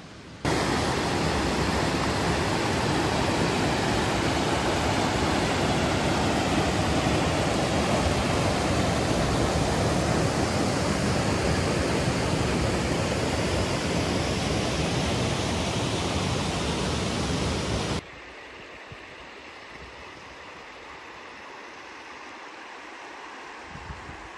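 Waterfall rushing loudly and steadily. It starts suddenly just after the start and cuts off abruptly about 18 seconds in, leaving a much quieter steady rush.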